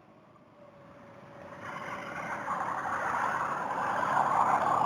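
Wind and riding noise from a Honda Rebel 250 motorcycle, heard through a helmet headset microphone, building steadily from near quiet over the first few seconds.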